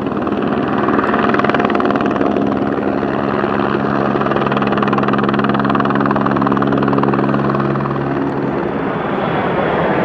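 Aircraft flying overhead, loud and continuous: a dense engine roar with a low, pulsing hum that swells about a second in and fades out near the end.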